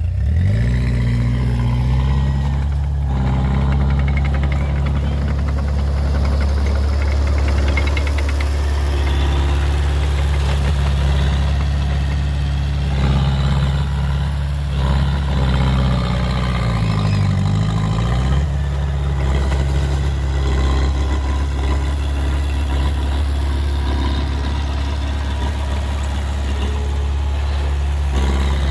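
Heavy construction machine's diesel engine running steadily, its pitch rising just after the start, then dipping briefly and recovering a little past halfway as the load or throttle changes.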